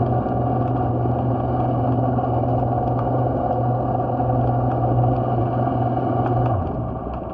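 A motor running with a steady low hum and a few faint ticks, its pitch easing down a little near the end.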